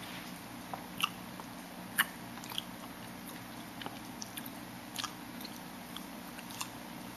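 Someone chewing a mouthful of cappuccino pie, with a few short soft clicks scattered through, over a faint steady low hum.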